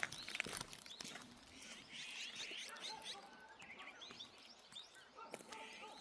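Small songbirds chirping in rapid runs of short high notes, with a few footsteps on the path in the first half second.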